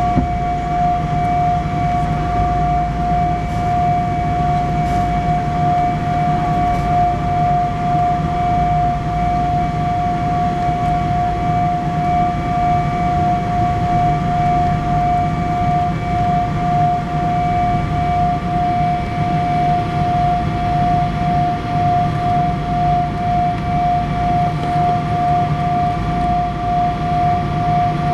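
Boeing 777-200 jet engines heard inside the passenger cabin: a steady whine over a low rumble, holding level with no change in pitch.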